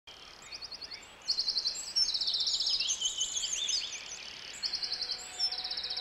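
Several songbirds singing at once: fast, high trills of rapidly repeated notes and chirps overlapping one another, growing louder about a second in.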